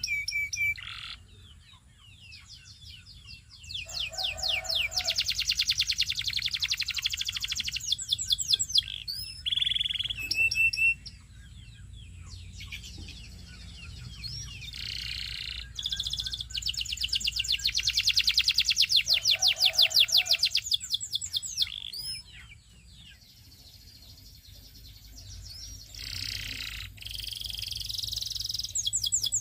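Belgian singing canary singing: varied song phrases broken by short pauses, with two long stretches of very fast trilled notes, each lasting several seconds, that are the loudest parts. A faint steady low hum runs underneath.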